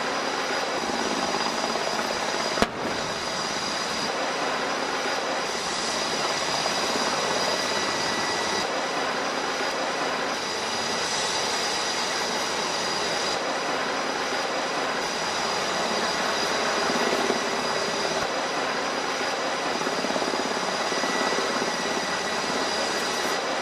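Steady mechanical roar with several high, steady whining tones over it, and a single sharp click about two and a half seconds in.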